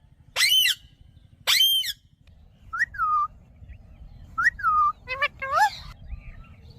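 A pet parrot calling: two loud, shrill screeches about a second apart, then a run of shorter whistled notes that dip and rise in pitch.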